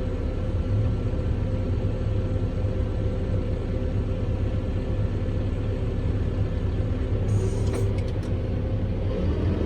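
Kubota M7-172 tractor's diesel engine running steadily, pulling a forage harvester through corn, with a few sharp clicks about seven to eight seconds in and the engine note rising near the end.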